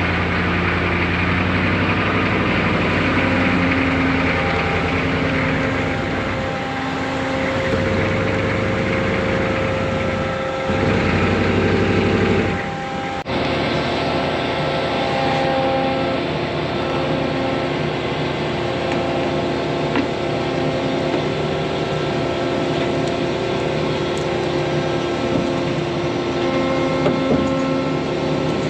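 Large farm machine's engine running steadily, its pitch shifting a little. The sound changes abruptly about thirteen seconds in.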